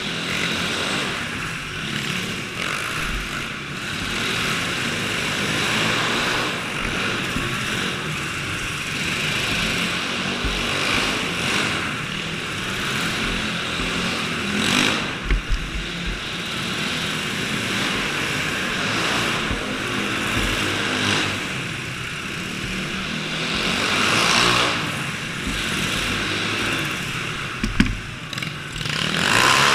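Small petrol engines of dirt bikes and go-karts buzzing continuously, swelling louder a few times as they rev or pass.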